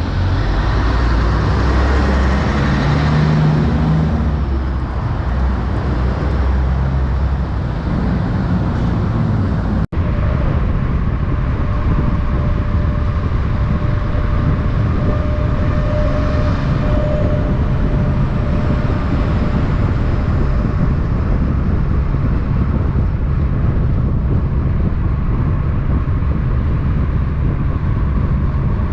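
Road traffic with heavy trucks, a steady loud low rumble of engines and tyres. The sound cuts out for an instant about ten seconds in, then the rumble carries on.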